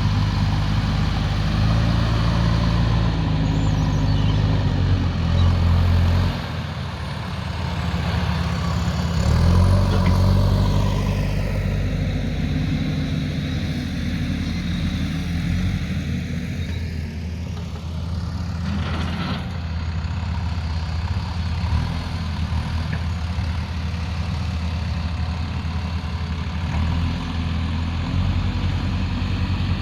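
Diesel engine of a heavy earthmoving machine, a backhoe loader or excavator, running under changing load. Its low note shifts and swells as it works, dipping a little after six seconds and rising again around ten seconds.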